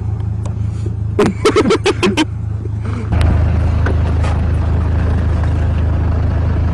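Car engine running with a steady low hum that gets louder about three seconds in, as the car pulls the drag stunt. A quick run of about seven short, sharp sounds comes a little over a second in.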